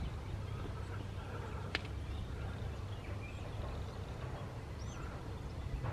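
Quiet outdoor ambience: a steady low rumble with a couple of faint bird chirps and a single sharp tick about two seconds in.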